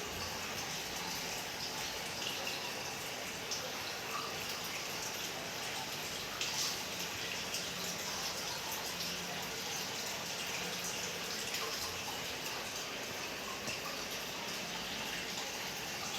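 Water trickling and splashing steadily into an aquarium, with occasional small drips.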